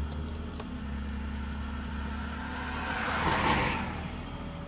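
Acura 3.2TL's 3.2-liter V6 running steadily seconds after a cold start in sub-freezing weather. A brief rush of wind noise comes about three seconds in.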